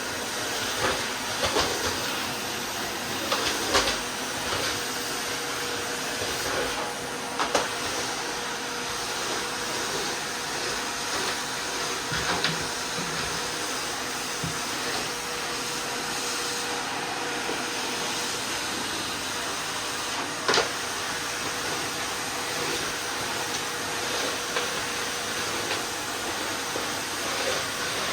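Miele vacuum cleaner running steadily, a constant hiss with a faint hum, while scattered sharp clicks and crackles come from grit and crumbs being sucked up.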